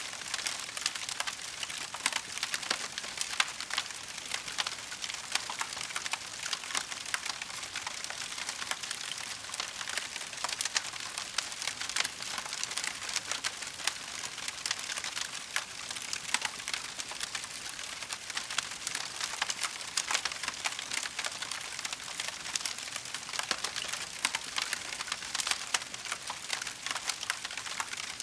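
Burning wood in a fireplace crackling continuously, a dense run of small pops and snaps with occasional louder cracks.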